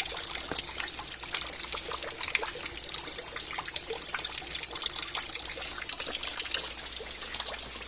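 Rain falling, with water trickling and many irregular drips splashing.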